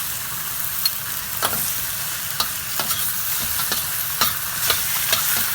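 Chopped bok choy sizzling as it sears in a very hot wok, with a utensil clicking and scraping against the wok as it is stirred, the clicks coming every half second or so from about a second and a half in.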